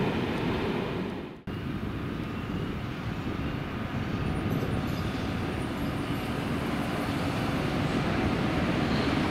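Train passing with a steady low rumble. The sound cuts out for an instant about a second and a half in, then the rumble carries on.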